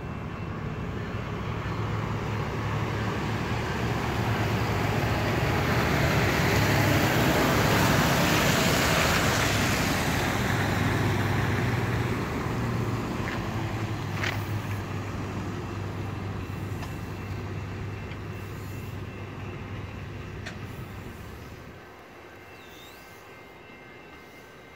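Exo commuter train, a locomotive hauling bilevel coaches, passing close by. A steady low engine hum and the rumble of the train swell to a peak about eight seconds in, then fade as the coaches roll past, with a couple of short high squeaks from the wheels or brakes. The low hum drops away near the end.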